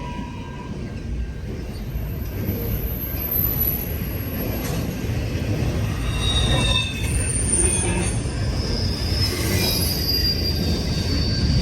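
Freight train of intermodal well cars rolling past: a steady rumble of wheels on rail, with high-pitched wheel squeal coming and going and growing louder in the second half.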